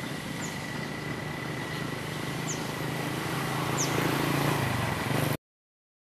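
Running motor vehicle with a low hum that grows louder toward the end, under a steady high tone, with three brief, high, falling bird chirps spaced a second or two apart. The sound cuts off abruptly about five and a half seconds in.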